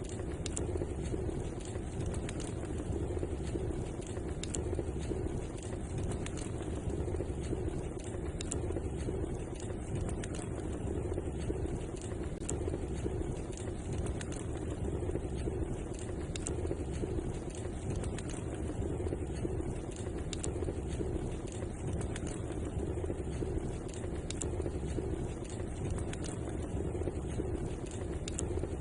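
Wood fire crackling in a fireplace: frequent small pops and snaps over a steady low rumble of burning.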